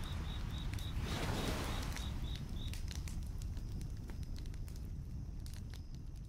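Campfire crackling, with scattered sharp pops over a low steady rumble. A high chirp repeats about four times a second for the first two and a half seconds, then stops. The sound slowly fades toward the end.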